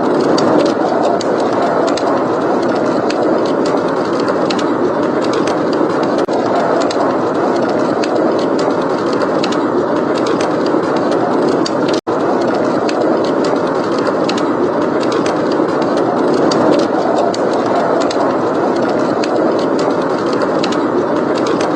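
Blizzard wind blowing steadily with a fireplace crackling throughout, its small sharp pops scattered over the wind. The sound drops out for an instant about twelve seconds in.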